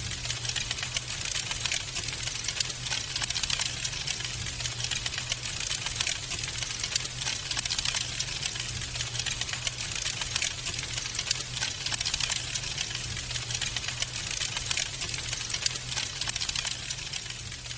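Wood fire crackling in a fireplace: a dense, irregular stream of small sharp pops and snaps over a low steady rumble.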